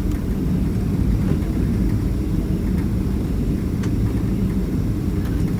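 Cabin noise inside a Boeing 767-300ER on the ground after landing: a steady low rumble of the jet engines and rolling gear, with a few faint small rattles.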